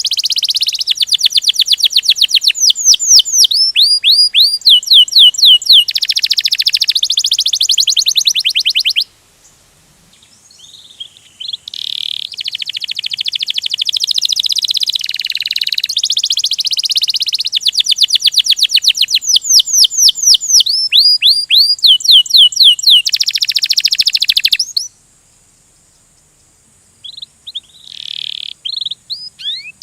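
Domestic canary singing a loud, rolling song of fast trills and long runs of quick downward-sweeping notes. The song breaks off twice for a couple of seconds, about nine seconds in and again near the end.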